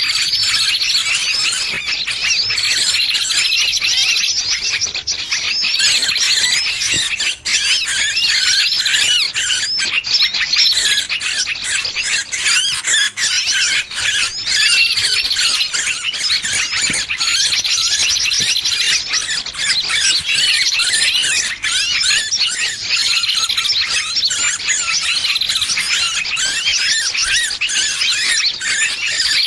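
Recorded distress calls of a small bird caught or pinched ('burung kejepit'), used as a trapping lure: rapid high squeals and squawks without a break, with a short falling note repeating every two to three seconds. A distress call of this kind draws other birds in.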